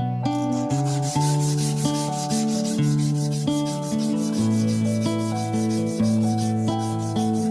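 Sandpaper rubbing back and forth on the steel face of a machinist hammer in short, regular strokes, while it is worked toward a mirror polish. Instrumental music plays under it.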